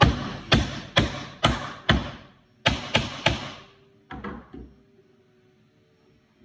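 A hammer driving a nail into a wood panel: five sharp strikes about half a second apart, a short pause, three more strikes, then three lighter taps.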